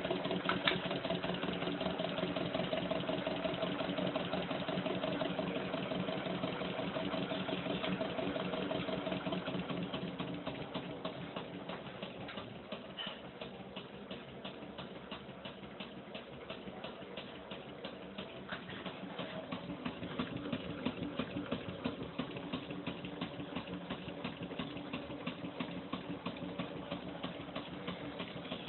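Small Stirling engine running steadily, a mechanical hum with a fast, even ticking; it quietens a little in the middle and picks up again near the end.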